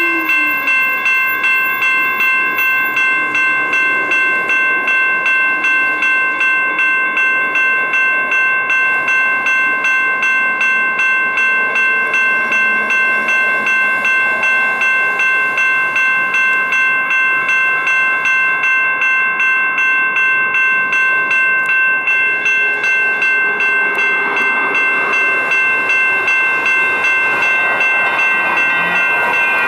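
Railroad crossing signal bell ringing steadily, about two strokes a second, with a ringing, metallic tone. Near the end a rumbling rail noise builds under it as a train approaches.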